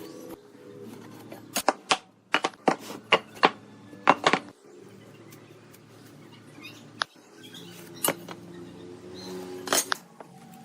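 Sharp knocks and clinks of hard objects: about a dozen in quick succession in the first half, then a few single ones later, over a faint steady background.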